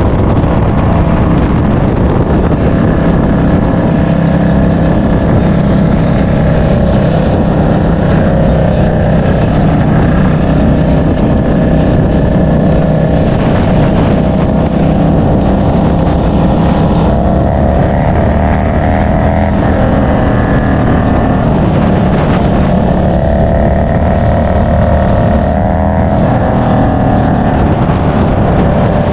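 Motorcycle engine and exhaust running steadily while riding, the engine note rising and falling slightly with the throttle.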